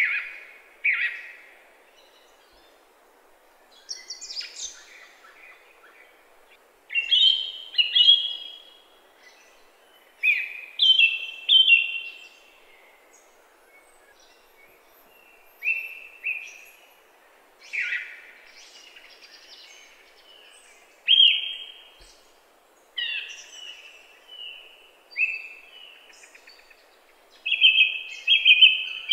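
Birdsong: short chirped phrases repeated every two to three seconds, over a faint steady background noise.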